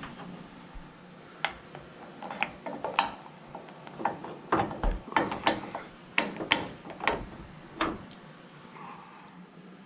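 Irregular run of sharp metallic clicks and clinks from a ratcheting mechanism, starting about a second and a half in and stopping about eight seconds in.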